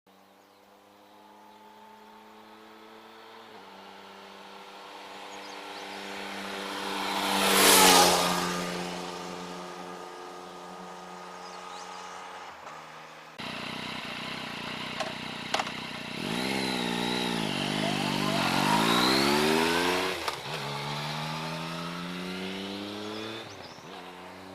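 Yamaha Tracer 900 GT's inline-three exhaust as the bike rides past: the engine note swells, peaks about eight seconds in and fades, dropping slightly in pitch as it goes by. After a sudden cut, the exhaust is heard closer and louder, with the revs rising and falling, before it settles to a steadier note.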